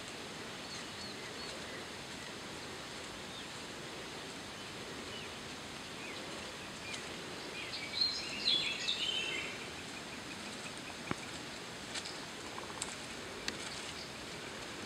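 Steady outdoor background hiss. About halfway through, a bird gives a quick run of chirping calls, and a few faint clicks follow later on.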